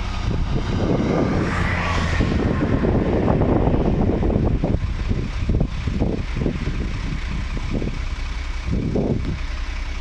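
Heavy vehicle engine noise with a low rumble, a whine rising in pitch about one to two seconds in, then uneven surges of rumbling in the second half.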